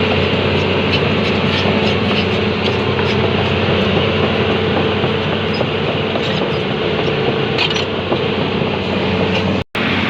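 Excavator's diesel engine and hydraulics running steadily at a constant pitch, with scattered light clicks and clinks. The sound cuts out for a moment near the end.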